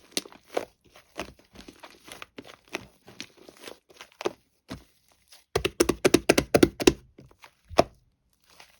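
Sticky slime being squeezed and stretched by hand, giving a string of sticky clicks and small pops that come thickest and loudest from about five and a half to seven seconds in.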